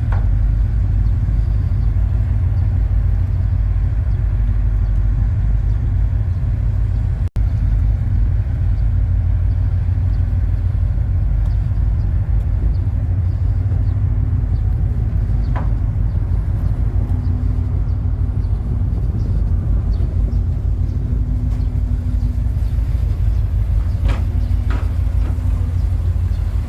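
Steady, loud low rumble of the Super Jet high-speed passenger boat under way, its engines and hull heard from inside the cabin. A faint hum rises over it around the middle, and a few light knocks come near the end.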